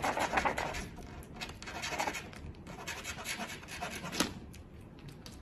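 Irregular scratching and rustling, a dense run of small scrapes and clicks that thins out after about four seconds.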